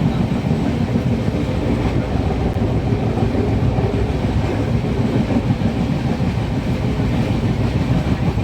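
Passenger train running at speed, a steady low rumble of the coach and its wheels on the rails.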